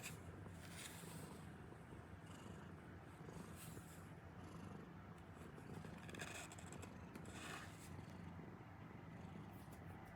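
Domestic cat purring steadily, a faint low rumble, with a few brief soft rustles.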